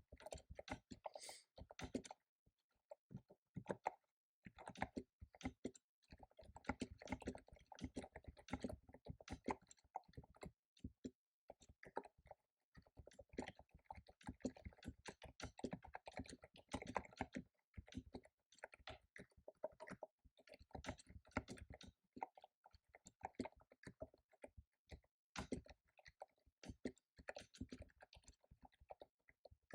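Typing on a computer keyboard: quick runs of keystrokes broken every few seconds by short pauses.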